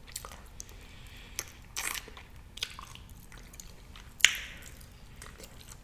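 Close-miked eating sounds: a person chewing and smacking food, with scattered wet mouth clicks. The loudest is a sharp click with a brief hiss about four seconds in.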